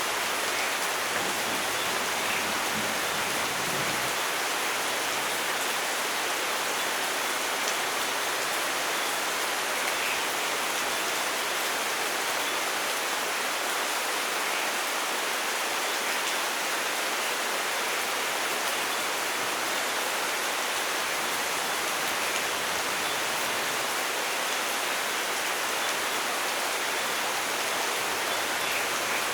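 Steady rain falling, an even hiss, with a low rumble of thunder dying away about four seconds in.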